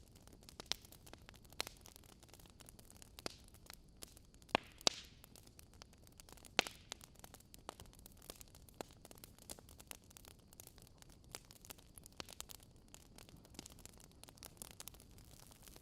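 Fire crackling: irregular sharp pops and snaps over a soft steady hiss, with the loudest pops about four and a half, five and six and a half seconds in.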